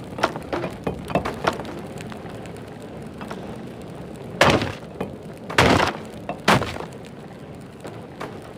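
Crashing and clattering: light knocks and clinks scattered throughout, with three louder crashes in the middle, the second lasting about half a second.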